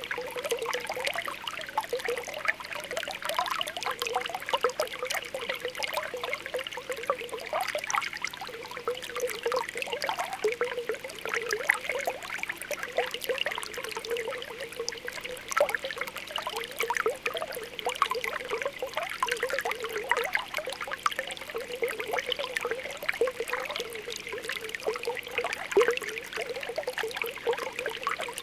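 Spring water welling up from the ground with a steady, continuous popping and bubbling.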